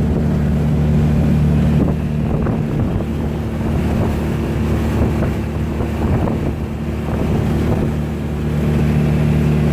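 Fishing boat's engine running steadily with a constant low drone, with wind gusting over the microphone.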